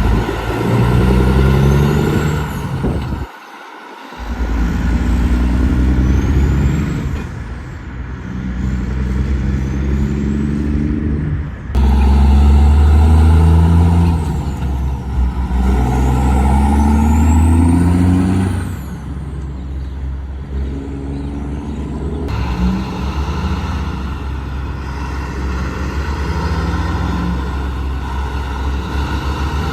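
Diesel semi-truck engine accelerating through the gears: its pitch climbs for a couple of seconds, drops at each shift and climbs again, many times over, with a thin rising-and-falling whistle above it. The sound changes abruptly a few times, as if from one passing truck to another.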